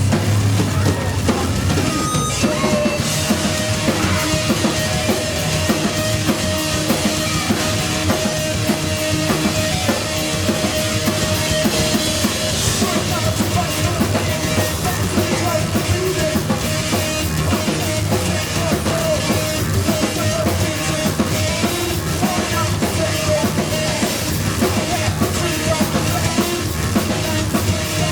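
Live rock band playing loud, with a busy drum kit and bass; a sustained high note holds from about two and a half seconds in.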